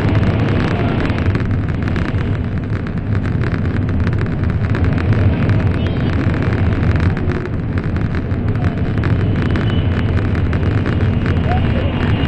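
N700 series Shinkansen running at speed through a tunnel, heard from inside the passenger cabin as a steady rumble with a strong low hum.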